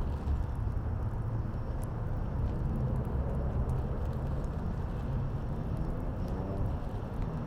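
Steady low rumble of city traffic and wind, with a few sparse crackles from the fire.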